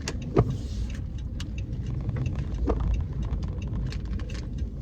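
Car engine idling, a steady low rumble heard from inside the cabin, with scattered small clicks and a few louder knocks.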